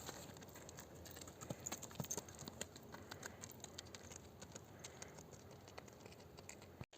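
Faint, irregular clopping of a donkey's hooves as it walks over the ground.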